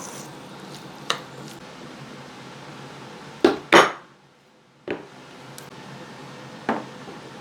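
Dishes and cutlery clinking and clattering in a kitchen: a handful of separate sharp knocks, the loudest two in quick succession about three and a half seconds in.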